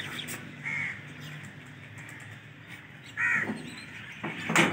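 A bird giving two short caws, about two and a half seconds apart, with a sharp click near the end.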